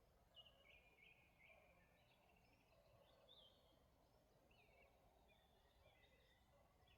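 Faint birdsong: many short chirping notes from small birds, repeating throughout over a very quiet rural background hush.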